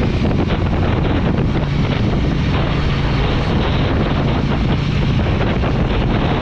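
Wind rushing over the microphone of a moving KTM motorcycle, with the engine running at a steady low pitch underneath.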